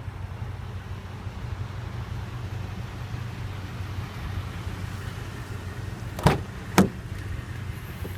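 Steady low rumble with two sharp knocks about half a second apart roughly six seconds in.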